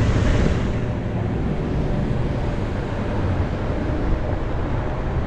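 Car driving, a steady low road and engine rumble with no sharp events.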